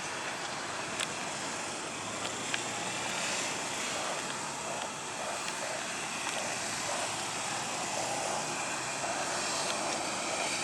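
Boeing 737-700 jet engines running with a steady, even rushing hiss, with a couple of faint clicks in the first few seconds.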